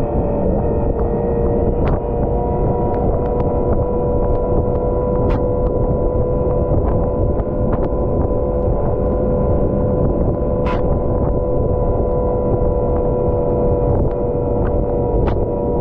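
Volvo L110 wheel loader's diesel engine running steadily while plowing snow, a constant drone with a steady whine over it and a few scattered sharp ticks.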